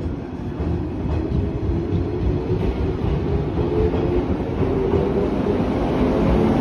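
Shinano Railway 115 series 1000-number electric train pulling out of the station, its cars rolling past with a steady rumble of wheels on rail and a motor hum, growing louder as it gathers speed.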